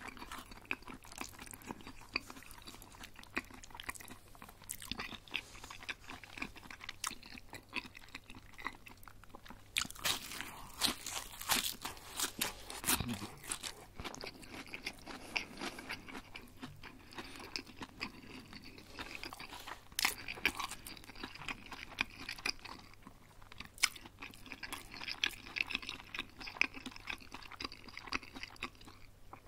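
Close-miked chewing and crunching of crispy breaded chicken schnitzel. The crunches are thickest about ten to twelve seconds in.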